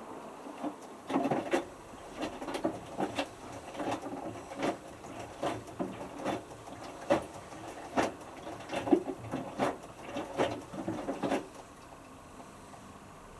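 Hotpoint Futura HF8B593 washing machine drum tumbling a small wet load of t-shirts, with irregular splashes and soft knocks as the clothes and water drop inside the drum. The tumbling stops near the end, leaving the machine's low steady hum.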